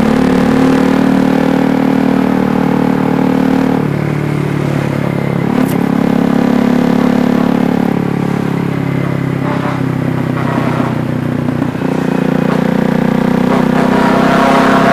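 KTM Duke 390's single-cylinder engine running under way. Its note drops about four seconds in and picks up again near the end.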